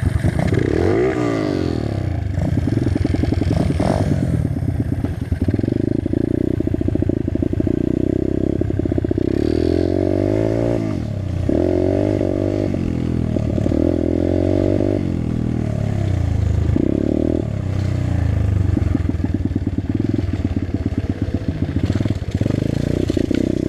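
Dirt bike engine running under way, its revs rising and falling again and again as the rider accelerates and shifts up through the gears. It pulls freely, not sluggish, with its loose fuel line reconnected.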